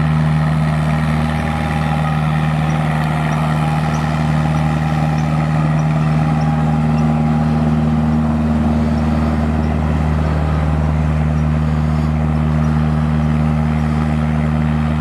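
A narrowboat's engine running loud and steady with a low, even hum as the boat passes.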